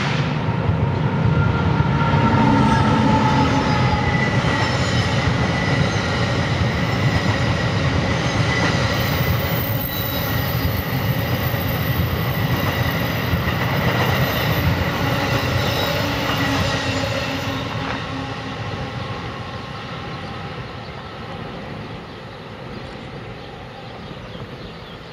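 NJ Transit double-deck commuter train passing at speed, a dense rumble of wheels on rail with thin, high wheel-squeal tones over it. It stays loud for about eighteen seconds, then fades steadily as the train moves away.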